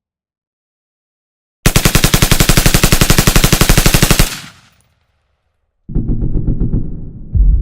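A machine gun fires one rapid, evenly paced burst lasting about two and a half seconds. After a pause, distant battle sounds begin: a low rumble with a patter of far-off gunfire.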